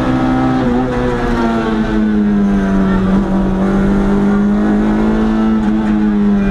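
Historic competition car's engine heard from inside the cabin, running hard up a hillclimb; its note falls a little about one and a half seconds in, then holds steady.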